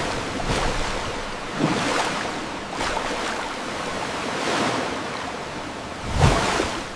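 Sea waves washing, a steady rush of surf that swells and falls every second or so, with a louder, deeper surge near the end.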